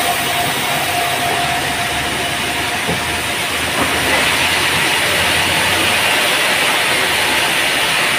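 Band sawmill running and sawing a teak log: a loud, steady noise, with a steady whine that fades out in the first two seconds.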